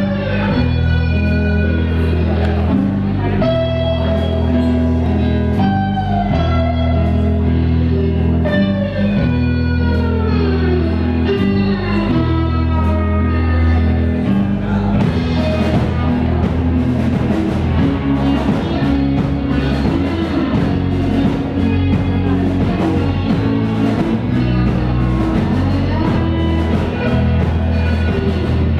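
A rock band playing, with a guitar line of sliding, bending notes over a steady, repeating bass.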